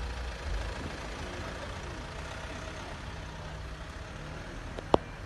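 Car engine running at low speed: a steady low hum. A single sharp click sounds near the end.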